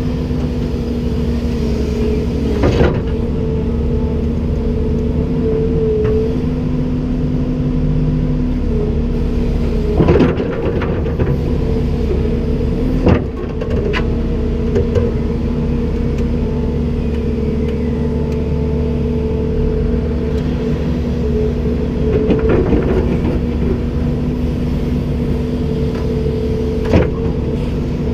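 Komatsu PC290-10 excavator's six-cylinder diesel engine running at a steady speed, with a few sharp knocks or clanks, the strongest about ten and thirteen seconds in.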